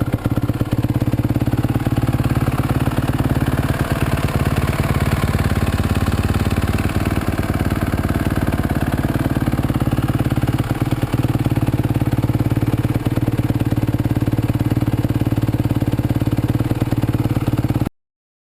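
Kawasaki KX250F four-stroke single-cylinder motocross engine idling steadily, warming up after a cold start. The sound cuts off abruptly near the end.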